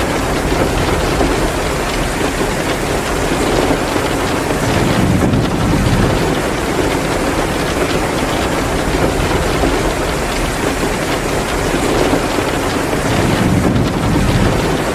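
Heavy rain pouring steadily, with a low rumble swelling up twice, about five and thirteen seconds in.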